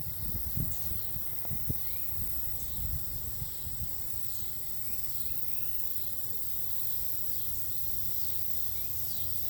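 Outdoor ambience: a steady high insect drone, like crickets, with a few short chirps, over low rumbling and bumps on the microphone that start suddenly and ease off after about four seconds.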